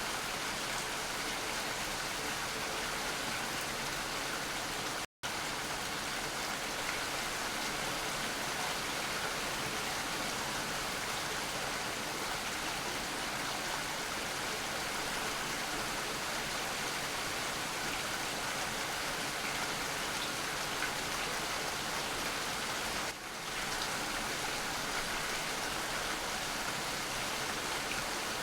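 Steady rainfall, an even hiss of many drops with no distinct events. The sound cuts out completely for an instant about five seconds in, and dips briefly near the end.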